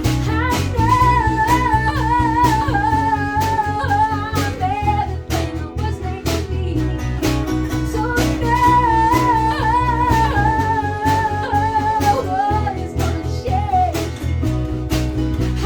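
Small acoustic band playing a song with a steady strummed guitar beat, a woman singing a wavering melody over it.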